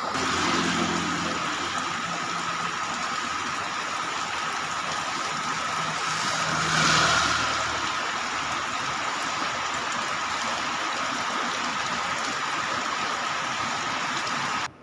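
Heavy rain with strong wind: a steady, loud hiss that swells briefly about seven seconds in, with a low hum underneath near the start and again around the swell. It cuts off suddenly at the end.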